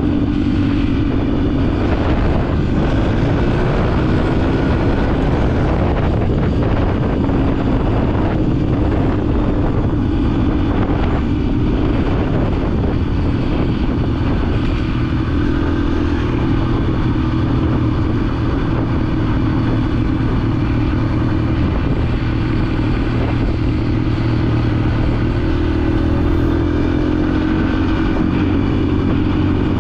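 Yamaha dirt bike engine running under way, its pitch rising and falling gently as the throttle changes, steady and loud throughout.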